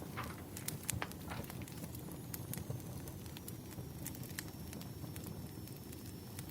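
Burning firewood crackling, with irregular sharp pops and snaps over a low steady rumble.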